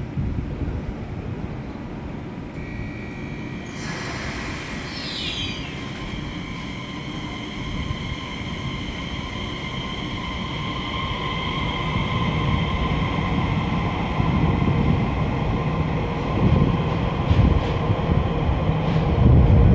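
Electric train at a station platform: the traction motors whine in steady tones over the rumble of wheels on track, and the rumble grows louder toward the end. A brief high squeal slides downward about five seconds in.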